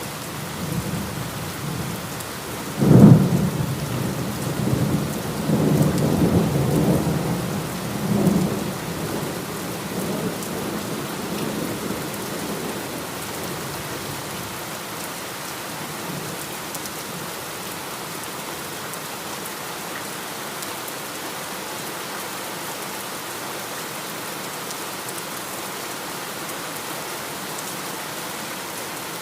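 Steady heavy rain with a sharp thunderclap about three seconds in, the loudest moment, followed by thunder rumbling for several seconds and dying away by about twelve seconds in, after which the rain continues alone.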